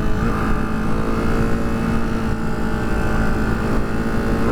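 Ducati Hypermotard 698 Mono's single-cylinder engine running under way at fairly steady revs that creep up slightly, then ease off at the end.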